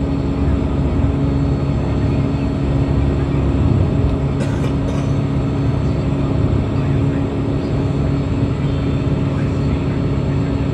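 Steady drone of the Toppy 2 gas-turbine jetfoil under way: a constant low rumble with a held hum, and a brief faint rattle about four and a half seconds in.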